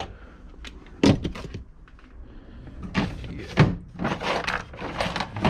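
Several sharp knocks and thuds with clattering and rustling between them, as of hard objects being handled and set down.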